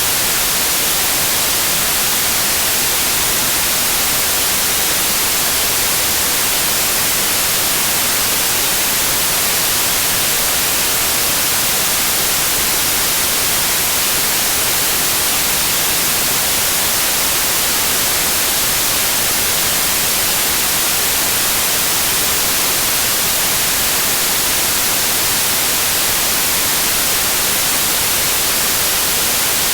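Steady synthetic white noise: an even, unchanging hiss, brightest in the high end.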